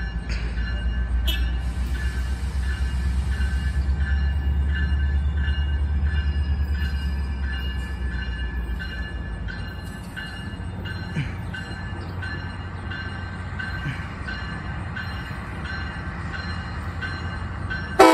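MARC commuter train with an MP36 diesel locomotive pushing from the rear approaches slowly. A low diesel rumble eases after about eight seconds while a bell rings steadily, about three strokes every two seconds. A horn blast starts right at the end.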